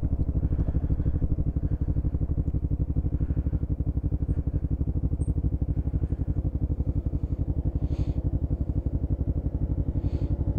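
Motorcycle engine running steadily with an even, quick pulsing beat; its note neither rises nor falls.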